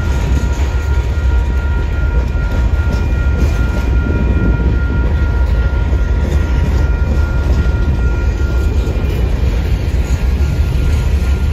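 Covered hopper cars of a freight grain train rolling past, a loud steady low rumble. A thin steady high ringing tone runs over it from the grade crossing's warning bell, fading near the end.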